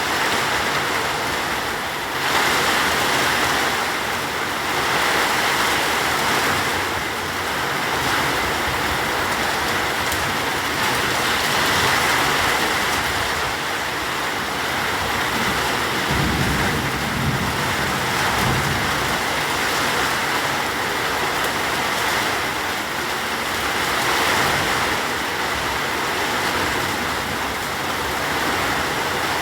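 Steady rain pouring down in a dense, even hiss, with a low rumble for a few seconds about sixteen seconds in.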